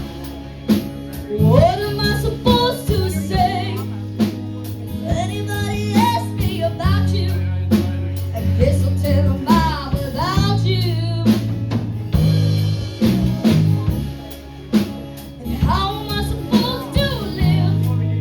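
Live band playing a slow song: a singer holding long, bending phrases over drum kit, bass and guitar.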